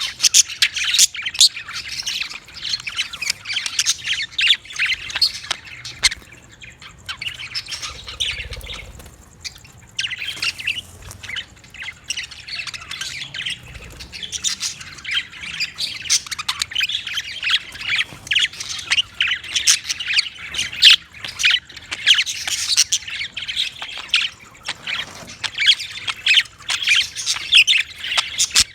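Budgerigars calling in a dense run of rapid, high, short calls, with a quieter lull about a quarter of the way through.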